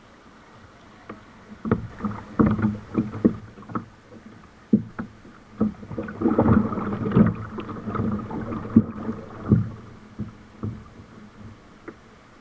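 Kayak on a river: paddle splashes and water slapping and knocking against the hull in irregular bursts, busiest about halfway through.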